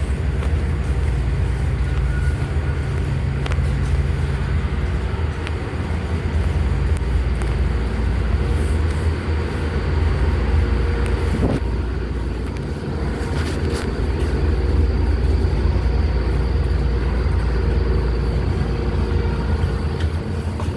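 Steady low drone of a ferry's engines and onboard machinery, with a few brief light knocks.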